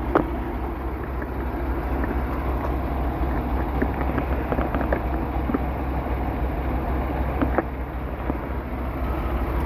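Semi-truck's diesel engine idling steadily, with a couple of light clicks over it.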